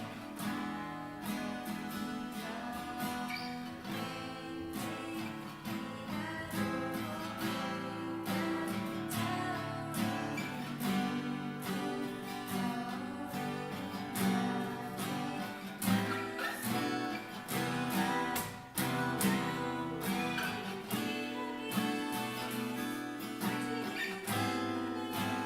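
Acoustic guitar strummed steadily, playing a chord progression as music.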